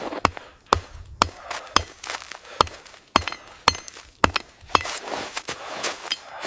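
A steady series of sharp blows, about two a second, like an axe or hammer striking wood.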